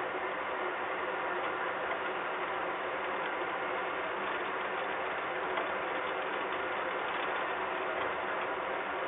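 Steady patter of rain, a dense even ticking with no breaks, heard through a nest camera's microphone.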